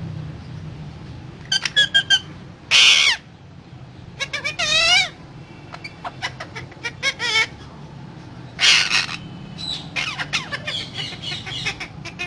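Pet parrot chattering: runs of rapid clicks broken by short warbling calls and a few loud harsh squawks, in bursts every second or two.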